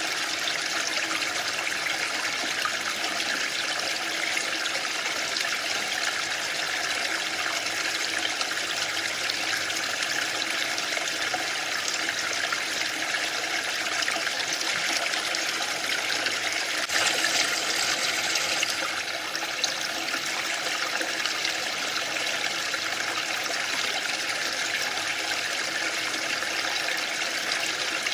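Waterfall: a steady rush of falling water, swelling slightly for a couple of seconds about two-thirds of the way through.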